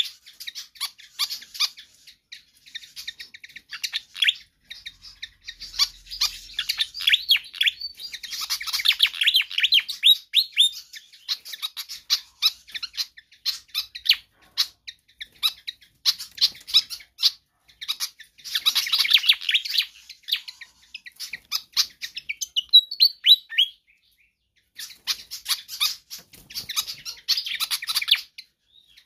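Fantail flycatcher (sikatan kipas) singing persistently: phrases of rapid, high chirps and twittering notes, one after another, with a short break near the end.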